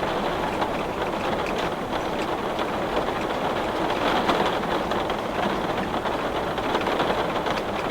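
Heavy rain pattering steadily on window glass, a dense even hiss of drops with faint scattered ticks.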